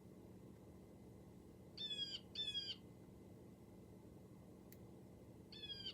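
Recorded blue jay calls played quietly from a desktop computer: two short calls in quick succession about two seconds in, and another pair starting near the end.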